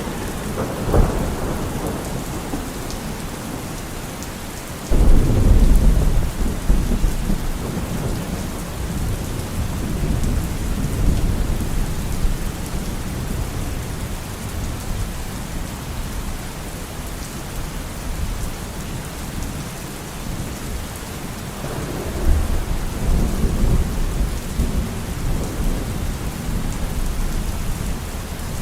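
Steady rain with thunder. There is a short crack about a second in, then a loud clap about five seconds in that rolls on for several seconds, and another rolling rumble about three quarters of the way through.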